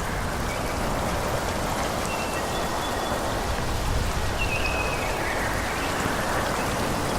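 Forest ambience: a steady rushing of wind through the trees, with a low rumble beneath it. A few short, thin high tones sound over it twice, near the start and again about four seconds in.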